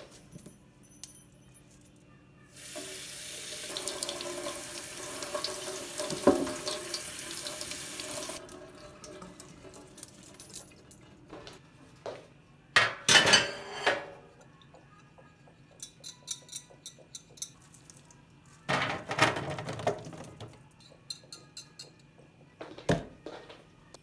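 Kitchen tap running into a sink for about six seconds, starting a few seconds in and stopping suddenly, followed by scattered knocks and clatter of kitchenware being handled.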